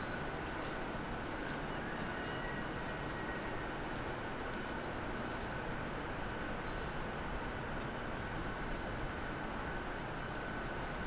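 Small bird chirping in the woods: short, high chirps about once a second, over a steady background hiss.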